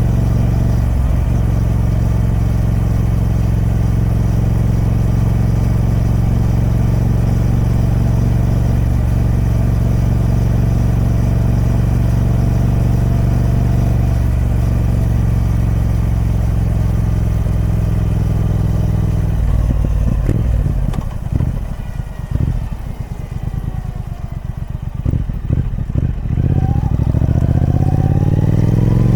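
Triumph Speed Twin 1200's parallel-twin engine on its stock exhaust, running at steady revs for most of the time. About two-thirds of the way through the revs drop and the note turns quieter and uneven for several seconds, then climbs in pitch again near the end as it accelerates.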